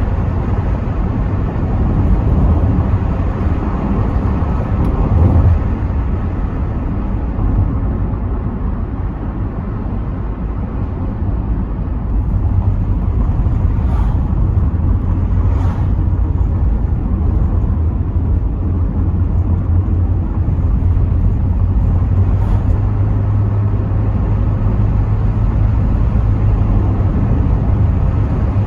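Rover 75 Tourer's V6 engine and tyres heard from inside the cabin while driving: a steady low rumble of engine and road noise that eases off about a third of the way through and builds again shortly after.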